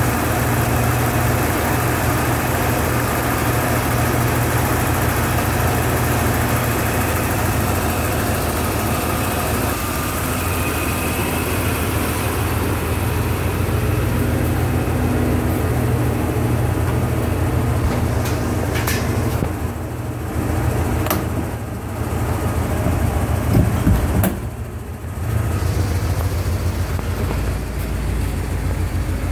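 Porsche 928 S4's 5.0-litre V8 idling steadily, running again after seven years of sitting. A few sharp clicks are heard about two-thirds of the way through.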